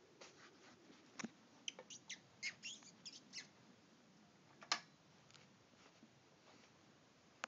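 A small pet bird in its cage giving a quick run of short, faint chirps, followed a few seconds in by a single sharp click.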